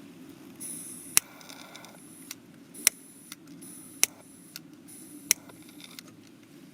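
Wood campfire crackling: four loud, sharp pops a little over a second apart, with fainter snaps between them.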